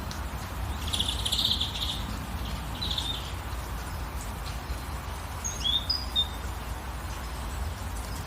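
Songbirds chirping over a steady hiss of light rain. A rapid trill comes about a second in and a shorter one near three seconds, then a few quick whistled notes sliding up and down around the six-second mark.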